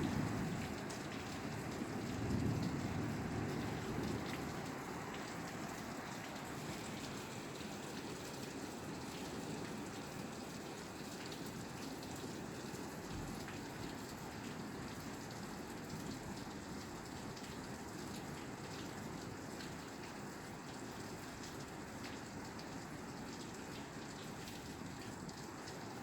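Steady rain falling on a roof, an even hiss dotted with the patter of individual drops. A low rumble in the first few seconds fades away.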